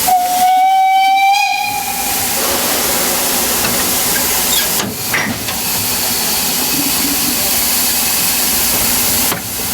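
Narrow-gauge steam locomotive's whistle sounding one steady blast of about two seconds, over a loud, steady hiss of escaping steam.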